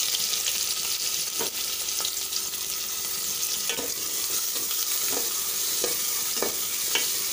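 Chopped onions and green chillies sizzling in hot oil in a pot as they are sautéed and stirred, with several short scrapes and knocks against the pot.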